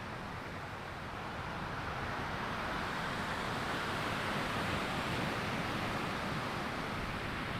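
Ocean surf breaking and washing up on a sandy beach, a steady rushing wash that swells a little louder through the middle.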